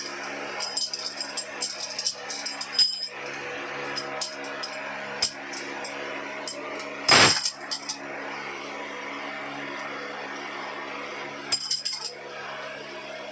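Metal tools clinking and tapping against engine parts over a steady hum, with one loud metallic clatter about seven seconds in.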